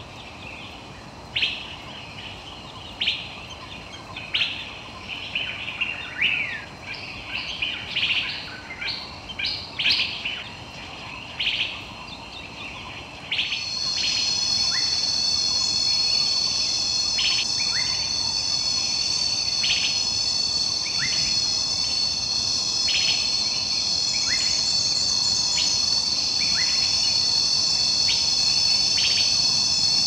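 Birds calling in short chirps, one every second or so. A little under halfway through, a steady, shrill insect chorus starts and carries on under the continuing bird calls.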